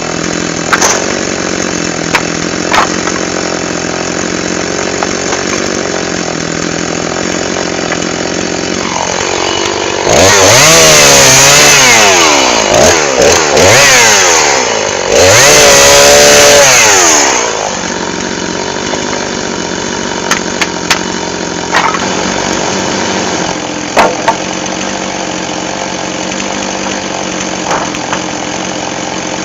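Chainsaw idling, then revved hard for about seven seconds, its pitch swinging up and down with a short drop in the middle, before falling back to idle. A few sharp clicks come over the idle near the end.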